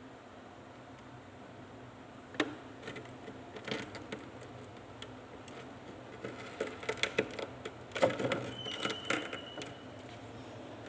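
Hard freezer-frost ice drops clicking and crackling as they are handled: a sharp click a couple of seconds in, then scattered clicks, and from about six seconds in a denser run of small clicks and crackles.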